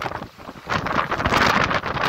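Strong gusty wind buffeting the microphone, with a short lull about half a second in before it picks up again.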